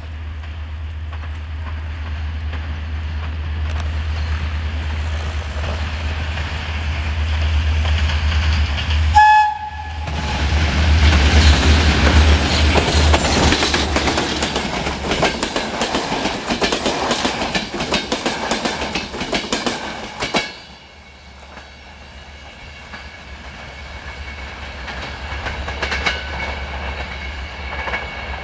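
GM-engined EGM-class diesel-electric locomotive approaching with its engine drone building, giving a short horn blast about nine seconds in, then running past with the coaches' wheels clattering over the rail joints. The sound drops sharply about twenty seconds in, leaving a quieter rumble as the train pulls away.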